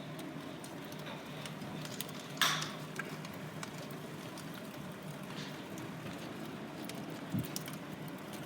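Log fire burning in a fireplace, crackling with many small sharp pops over a steady hiss, with one louder burst about two and a half seconds in.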